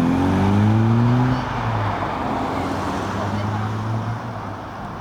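Car engine accelerating away, its pitch rising for the first second and a half. It then drops to a steadier note and fades as the car moves off.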